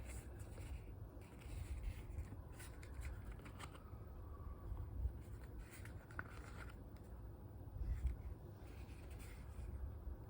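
Packaging being handled by hand: scattered rustles and light scrapes of paper and card in short bursts, over a steady low rumble.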